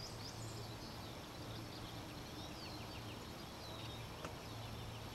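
Small birds chirping and twittering in quick, high calls, over a steady low hum. A single faint click about four seconds in.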